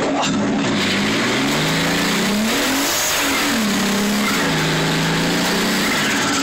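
Turbocharged BMW E36 325i's inline-six revving, heard from inside the cabin: the pitch climbs for about three seconds, drops back quickly, then holds lower and steadier.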